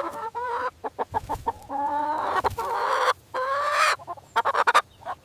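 Chickens clucking: a run of short clucks mixed with longer, drawn-out rising calls.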